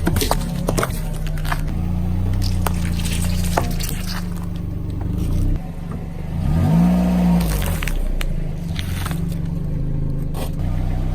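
A car's engine running at low speed while its tyres roll over and crush crunchy and soft things such as fruit, giving scattered sharp cracks. About six seconds in, the engine note rises and falls once.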